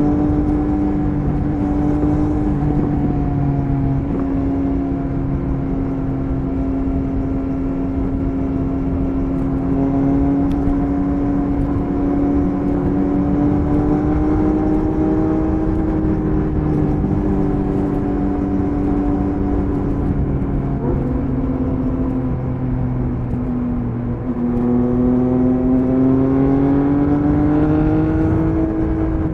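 Triumph Speed Triple 1050 RS inline-three engine running at cruising speed, its note drifting gently up and down over wind and road noise. About three quarters of the way through the note drops for a few seconds, then climbs again as the throttle opens.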